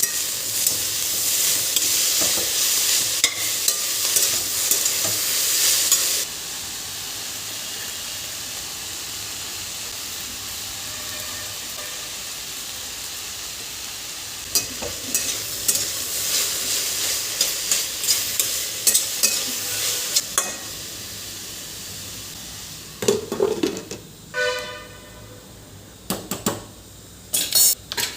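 Food sizzling as it fries in a pan, with the scrape of a utensil stirring it. The sizzle drops abruptly to a quieter, steadier hiss about six seconds in and swells again midway. Near the end come several clinks of utensils and dishes, some with a brief ring.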